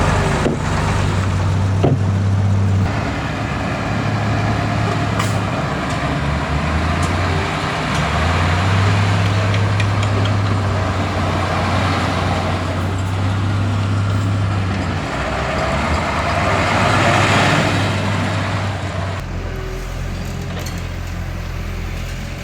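Heavy diesel earthmoving machinery running. The engine hum varies in pitch and load and breaks off and resumes several times, with a louder, noisier stretch about seventeen seconds in.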